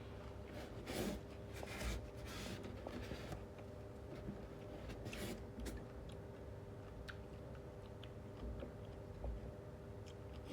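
A person chewing and eating close to the microphone, with irregular crunchy, wet mouth sounds that cluster in the first few seconds and come more sparsely after. A faint steady hum runs underneath.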